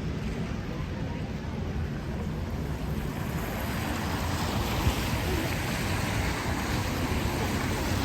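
Steady rain and traffic noise on a wet city street, with a low rumble of wind on the microphone; the hiss of the rain grows fuller about three seconds in.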